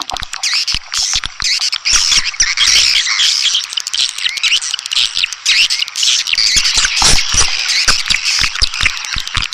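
A dense chorus of swiftlets chattering and twittering, many calls overlapping, with sharp clicks scattered throughout. It is a swiftlet lure recording, played to draw swiftlets in to nest.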